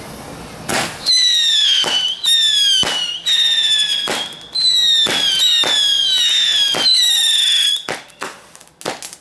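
Whistling fireworks going off in quick succession: about six shrill whistles, each falling slightly in pitch over about a second, with sharp cracks between them and a quick run of pops near the end. A steady hiss comes first.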